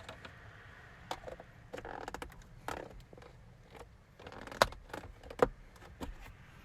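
Scattered handling noises: light clicks and rustling, with two sharper knocks a little after halfway.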